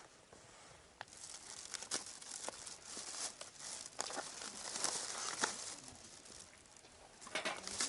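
Crinkling and rustling of something being handled, with small clicks mixed in; it starts about a second in, dies down about two-thirds through, and picks up again near the end.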